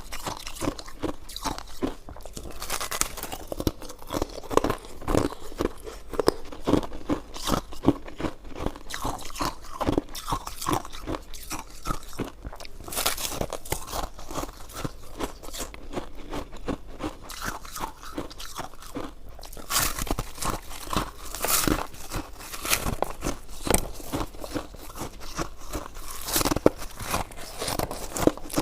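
Close-miked eating: continuous, irregular crunching and chewing, with many small crackles and clicks.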